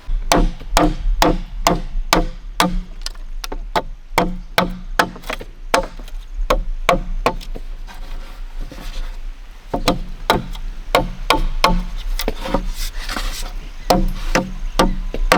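Bamboo being chopped with a blade: sharp woody strikes, a few a second, at an uneven pace.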